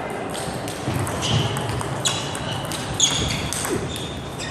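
Table tennis rally: a few sharp clicks of the celluloid/plastic ball striking bats and table, about a second apart, with a short high ping after the strongest hits; the loudest is about three seconds in.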